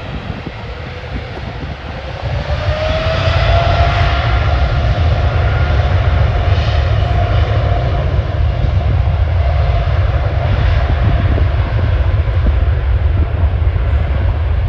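Airbus A330's jet engines screaming at takeoff thrust during its takeoff roll. A deep rumble runs underneath, and the engine whine rises in pitch and grows louder about two seconds in, then holds steady and loud.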